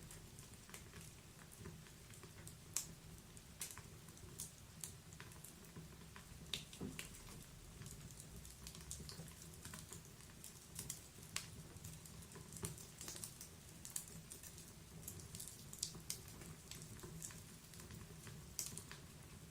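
Wood fire crackling in a fireplace: irregular sharp pops and snaps, some louder than others, over a low steady rumble of the burning.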